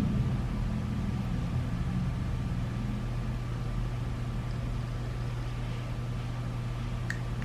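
Steady low hum with a faint thin tone above it, and a single light click near the end.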